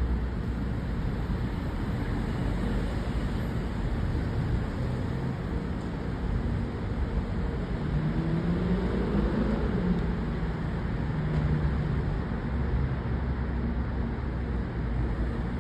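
Steady city traffic noise, a continuous wash of cars on the roads, with one vehicle's engine note rising and then falling about halfway through as it accelerates or passes.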